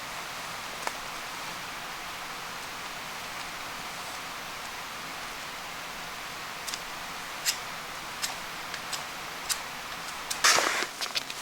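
A steady, even hiss of outdoor ambience with a few faint sharp ticks scattered through it. About ten seconds in, a louder burst of rustling and crunching begins.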